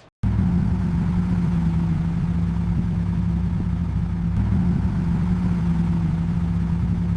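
Car engine idling steadily, starting abruptly about a quarter second in after a brief silence.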